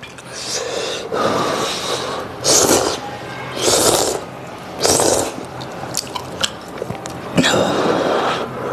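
Slurping spicy mala rice noodles from a bowl: several loud, airy slurps a second or so apart, with chewing between them.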